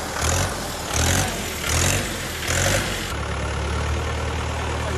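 Tractor engine running, surging in an even rhythm about every three-quarters of a second, then settling into a steady low drone about three seconds in.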